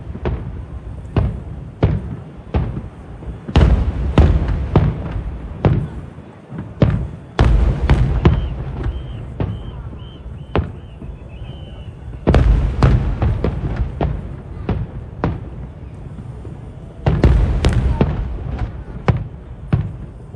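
Aerial fireworks bursting one after another, sharp bangs and deep booms with their echoes trailing after, in several dense volleys.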